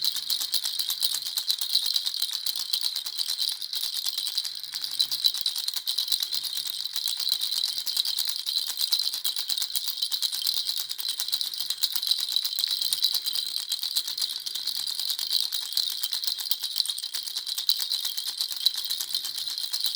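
Baby rattle shaken continuously, its beads giving a dense, steady run of fast, bright clicking.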